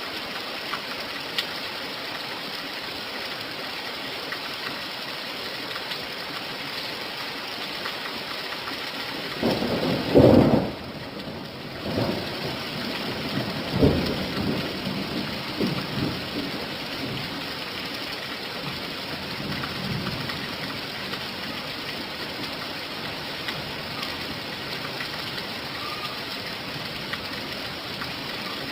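Steady rain falling, with a loud roll of thunder about a third of the way in that dies away in a few weaker rumbles.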